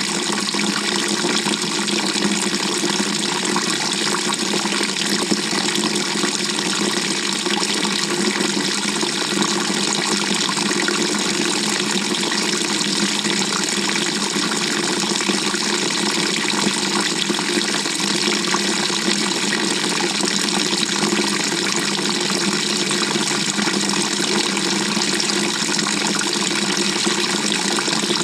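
Water rushing steadily into the drum of a 2018 GE GTW220ACKWW top-loading washing machine as it fills, heard from inside the drum.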